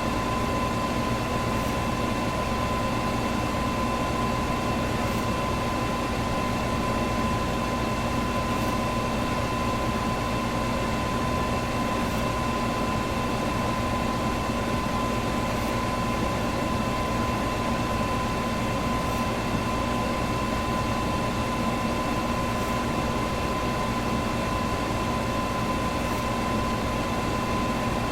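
Electric fan running steadily: an even whooshing rush of air with a constant motor hum, and a faint tick about every three and a half seconds.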